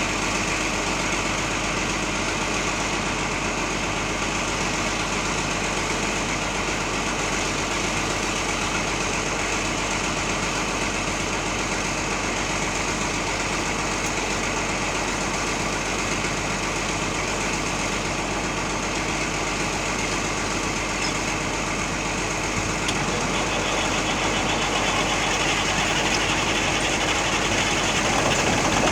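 Old truck's engine idling steadily right after a cold start in freezing weather, its block heater not plugged in; the sound grows a little louder over the last few seconds.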